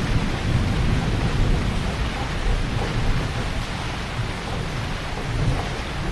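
Heavy rain falling steadily, with a low rumble of thunder underneath that eases toward the end.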